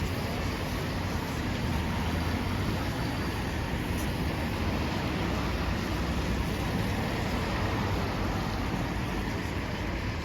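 Steady city street traffic noise: a continuous hiss with a low rumble, no single vehicle standing out.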